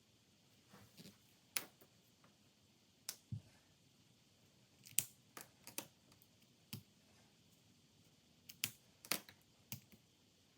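About fifteen light, sharp clicks and taps at irregular intervals as stationery is handled on a desk: pens, pen caps, paper and stickers.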